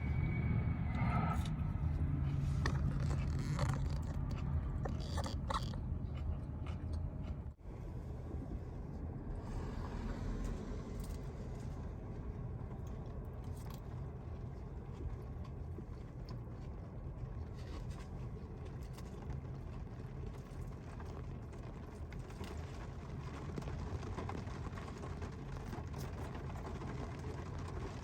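Eating sounds, with a utensil scraping in a food bowl and crunching bites, over a steady low engine rumble. After a brief dropout about seven seconds in, the low rumble continues with only faint clicks.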